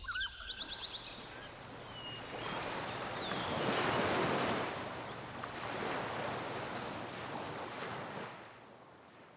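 Ocean waves washing ashore, swelling twice before fading out near the end, with a few bird chirps in the first seconds.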